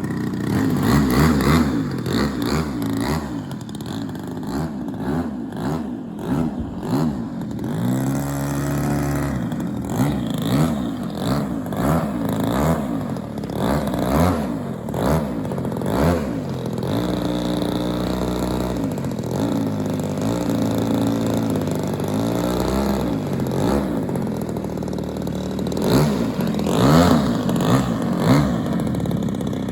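Engine of a large radio-controlled Cessna 195 scale model aircraft in flight after take-off. Its note rises and falls in pitch as the model passes and the throttle changes.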